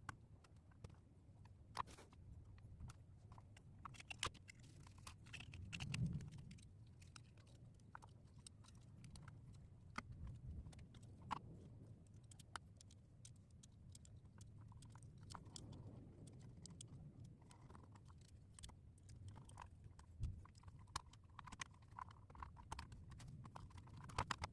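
Faint, scattered clicks and light taps of small gearbox parts and tools being handled, over a low steady hum.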